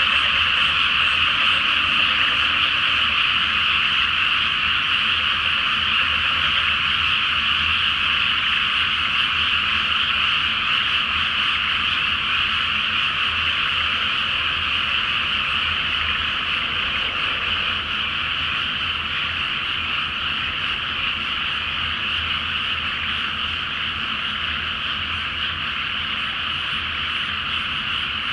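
Chorus of many frogs calling at once from a flooded rice paddy: a steady, unbroken wall of high-pitched calls that eases slightly in loudness about two-thirds of the way through.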